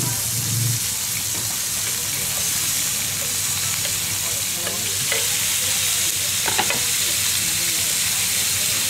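Small squid frying in butter and oil on a wide round griddle pan, a steady sizzling hiss. A couple of sharp clicks come past the middle.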